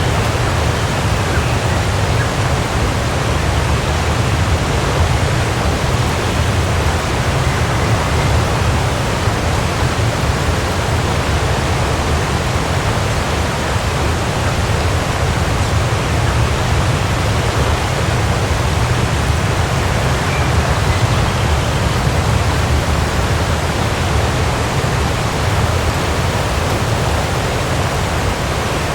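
Waterfall rushing steadily, an unbroken roar of falling water with a heavy low rumble.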